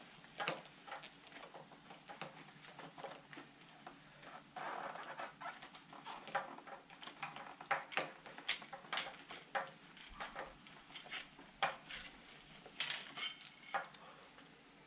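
Irregular small clicks, taps and knocks of metal and plastic parts being worked while sliding the switch housings off a motorcycle handlebar, with a brief scraping rub about five seconds in.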